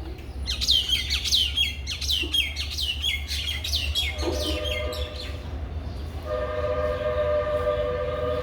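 Myna giving a quick run of harsh, downward-sweeping chirps, about three a second, for the first five seconds or so. From about six seconds a long, steady two-note horn sounds, like a train horn, over a low rumble.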